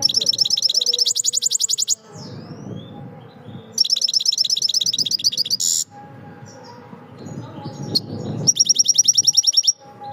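A songbird singing three loud, rapid, high trills of about one to two seconds each, with softer scattered chirps between them.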